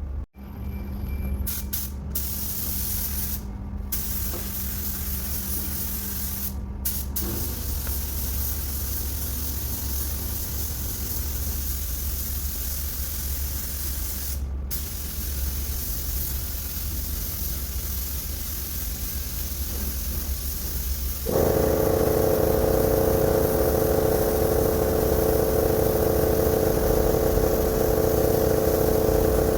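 Spray gun hissing steadily as silver paint is sprayed onto a bus body panel, with a few brief breaks where the trigger is let off. About two-thirds of the way through, a motor starts up and runs with a steady hum under the hiss.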